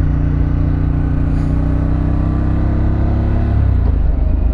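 2024 Harley-Davidson Pan America's 1250 cc V-twin running under way, with road noise. Its pitch sinks slowly, then drops and breaks up about three and a half seconds in before settling at a lower pitch.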